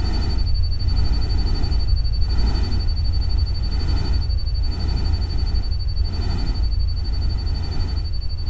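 Synthetic rain-and-stream noise bed: a steady deep rumble under a hiss that swells and fades about once a second, with a steady high-pitched tone above it.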